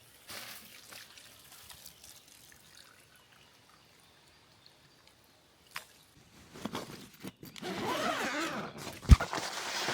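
Liquid being poured, starting about two-thirds of the way in, with a single sharp knock near the end.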